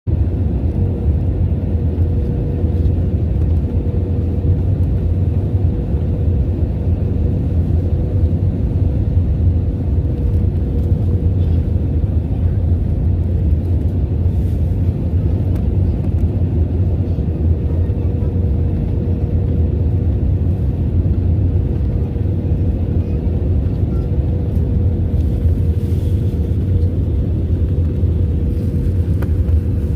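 Airliner cabin noise during descent: a steady low rumble of engines and airflow heard from inside the cabin, with a constant hum running through it.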